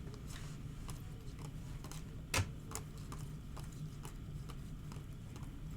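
Trading cards being handled: faint, irregular ticks and clicks, with one sharper click a little over two seconds in, over a low steady hum.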